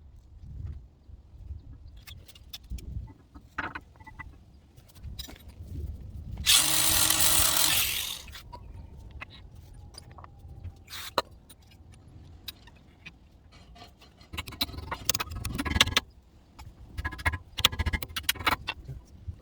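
Hand tools working on a car's front brake caliper and pads: scattered metal clicks and knocks, with a loud hiss lasting about a second and a half about six and a half seconds in, and a busier stretch of clattering near the end.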